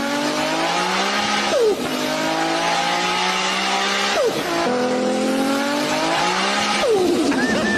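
A person imitating a car engine with her voice, winding up through the revs in three long climbs. Each climb breaks off with a sharp drop in pitch, like an upshift.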